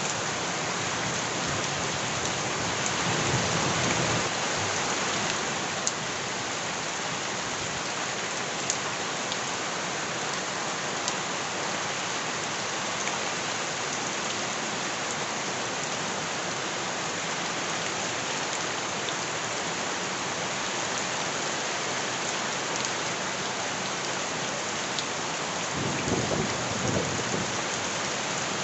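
Steady heavy rain, with a few sharp ticks of drops and two brief low rumbles, one about three seconds in and one near the end.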